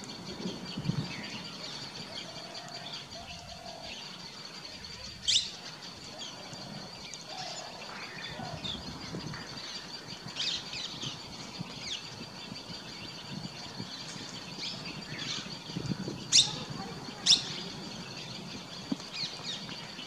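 Outdoor birdsong: scattered short high chirps over a steady high-pitched background tone, with three sharp, loud calls, one about five seconds in and two close together near the end.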